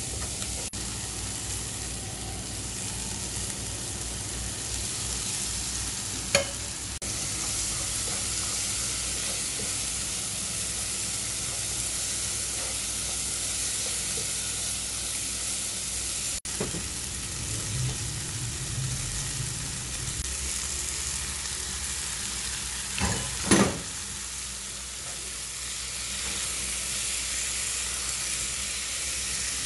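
Stir-fry of chilies, shallots, petai beans and squid sizzling steadily in a nonstick wok while a plastic slotted spatula stirs and scrapes it. A few sharp knocks cut through, the loudest pair about 23 seconds in.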